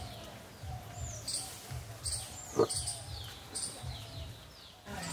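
Birds chirping, a string of short high calls that fall in pitch, over soft low thuds, with one sharp knock about two and a half seconds in.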